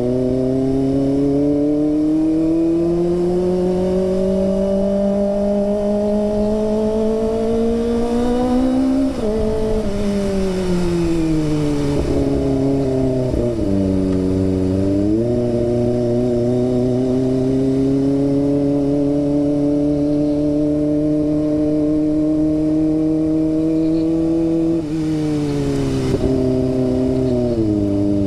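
Kawasaki ZX25R's 250 cc inline-four engine on the move, heard from the rider's helmet. Its pitch climbs steadily for about nine seconds, then falls away as the throttle eases. It dips and picks up again, holds a steady pitch, and drops briefly twice near the end.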